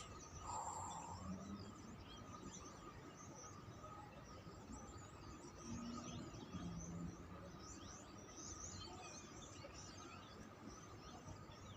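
Flock of small birds chirping faintly, many short overlapping calls, over a steady faint tone and low background rumble.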